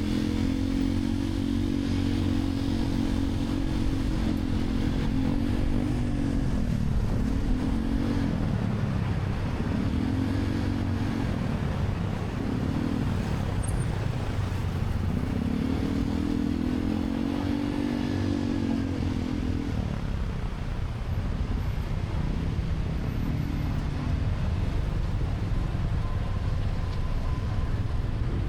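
A motorcycle taxi's engine, heard from the passenger seat, revving up and easing off several times over a steady low rumble.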